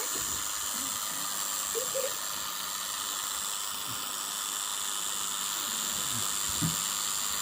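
Small electric motor and propeller of a toy airplane drone whirring steadily in flight, a constant high-pitched hiss.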